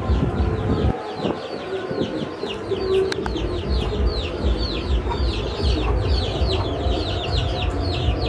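Birds chirping continuously: rapid, high, short falling chirps, several a second, over a steady low rumble.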